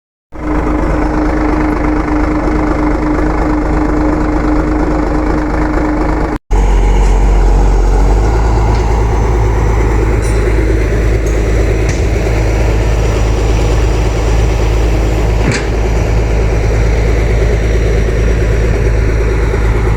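Backhoe loader's diesel engine running steadily. The sound breaks off for an instant about six seconds in and comes back heavier and deeper.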